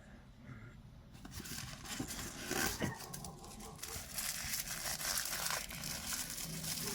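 Statue packaging being handled: wrapping crinkles and tears, starting about a second in and going on steadily, with a couple of sharper clicks in the middle.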